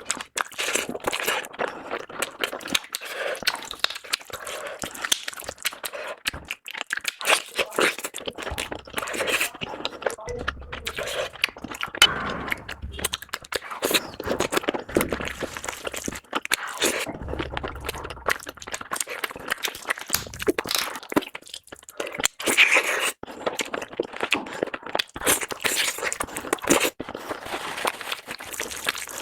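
Close-miked eating sounds: chewing and mouth smacking of curry, rice and puri, with irregular wet clicks, crunches and scrapes throughout.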